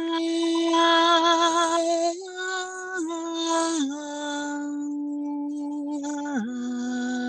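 A slow, single melodic line of long sustained notes, with vibrato on the first and small dips in pitch as it moves to each new note, about five notes in all.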